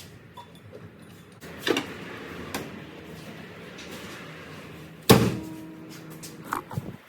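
A few knocks and clunks over a low steady background; the loudest comes about five seconds in.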